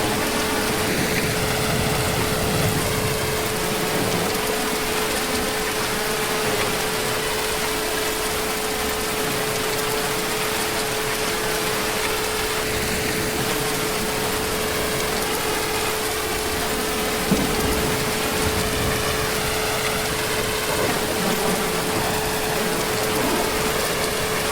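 Heavy rain falling steadily, an even hiss, with a steady humming tone running under it.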